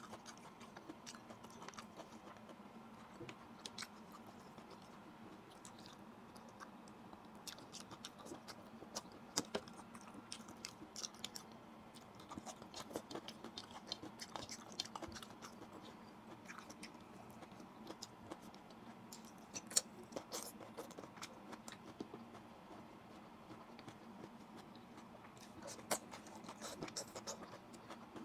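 Close-up chewing and mouth sounds of someone eating rice and pinakbet vegetables by hand, with small scattered clicks and taps as fingers pick food from the plates. A faint steady hum runs underneath, and a sharper click stands out about twenty seconds in.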